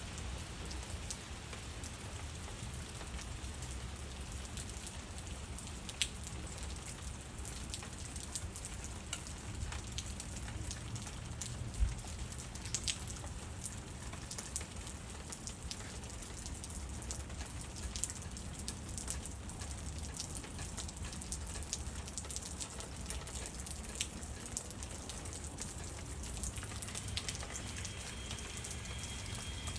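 Light rain falling in coconut palms: a steady patter with scattered individual drops striking, two of them sharper about 6 and 12 seconds in, over a steady low rumble.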